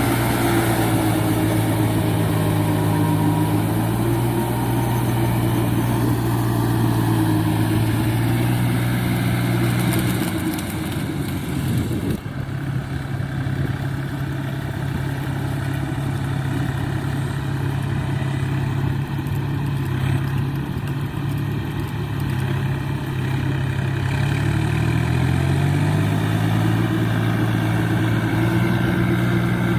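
Four-wheel paddy tractor's engine running steadily. Its note drops after about ten seconds and climbs back up near the end.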